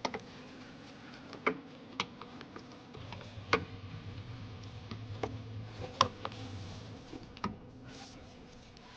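Scattered sharp clicks and taps of hands working plastic parts and connectors, roughly one every second. A low hum comes in about three seconds in and stops about seven seconds in.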